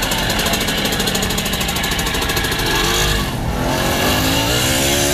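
An engine running steadily, then revving up from about three seconds in, its pitch rising.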